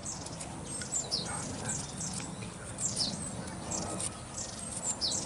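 Birds calling: a scatter of short, high, falling chirps, a couple of times a second, over a steady background hiss.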